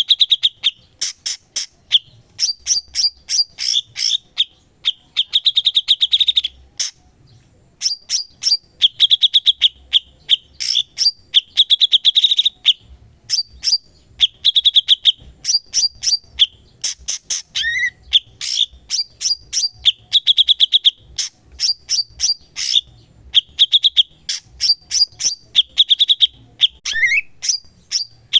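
Cucak cungkok singing continuously in a rapid, varied stream of sharp chips and fast buzzy trills, with one brief pause about seven seconds in.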